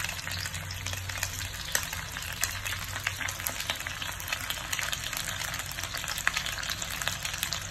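Slices of rice cake frying in hot oil in a pan: a steady sizzle with dense small crackles and pops throughout.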